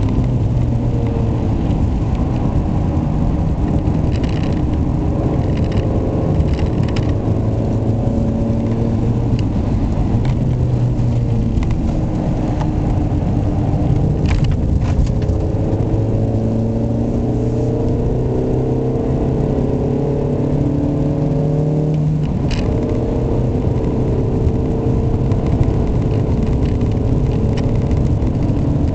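Ford Mondeo Estate's 1.6-litre, 125 hp four-cylinder petrol engine pulling along a country road. Its note climbs slowly in pitch, drops back twice (about twelve and twenty-two seconds in) as it changes up a gear, then climbs again. The owner finds the engine very noisy and reluctant to rev.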